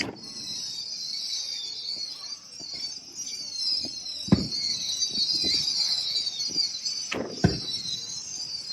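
Fireworks display: a continuous high-pitched whistling and screeching of fireworks, with two loud bangs about four and seven seconds in.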